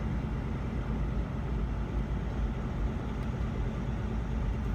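Semi truck's diesel engine and road noise heard inside the cab while driving, a steady low rumble.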